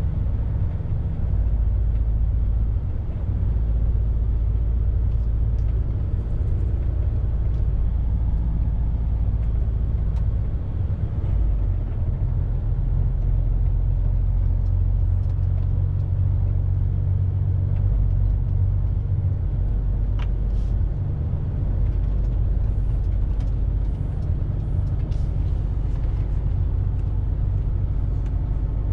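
Lorry on the move, heard from inside the cab: a steady low engine and road rumble, with a few faint ticks and rattles.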